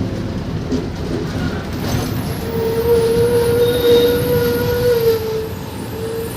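Train running, a dense rumble with a steady tone held for about three seconds in the middle.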